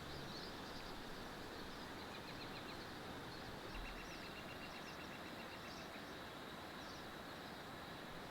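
Steady hiss of rain, with birds chirping high over it and a rapid trill for a couple of seconds in the middle.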